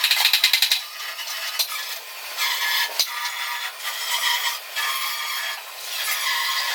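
Metalworking on steel: a fast mechanical rattle in the first second, then a stretch of scraping, hissing noise that swells and fades, with one sharp knock about three seconds in.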